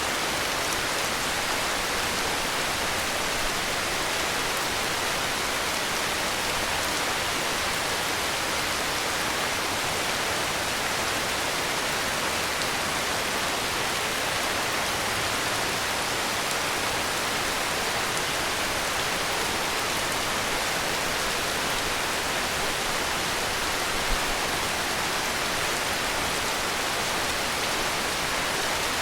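Heavy rain falling steadily: an even, unbroken hiss of rainfall with no changes in intensity, and one brief faint tap late on.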